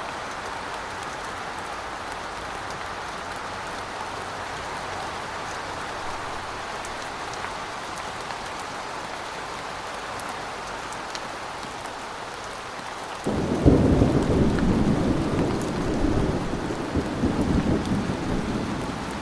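Steady rain hiss. About two-thirds of the way through, thunder breaks in suddenly and rolls on as a loud, low rumble for about six seconds, the loudest sound here.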